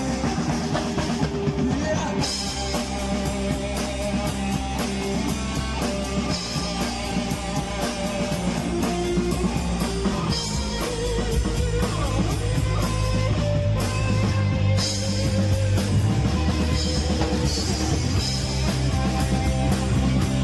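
Rock band playing an instrumental passage with no vocals: drum kit keeping a steady beat under guitars.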